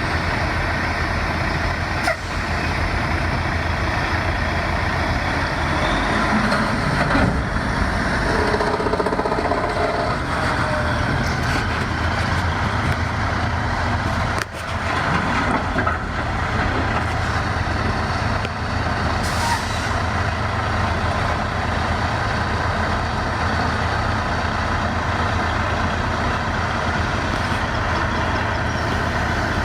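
Heavy diesel engine running steadily, a constant low drone.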